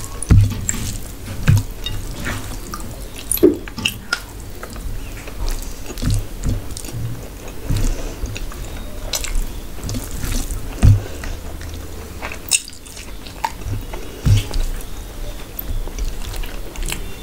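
Close-miked chewing and wet mouth sounds of eating rice and mutton curry by hand, with irregular soft clicks, smacks and squelches as the fingers mix rice into the gravy.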